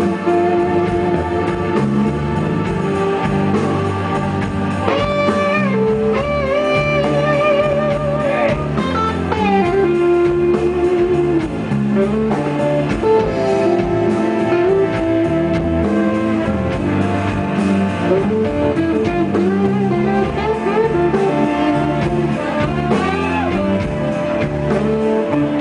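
Blues band playing an instrumental passage: a lead guitar with wavering, bent notes over bass and drums.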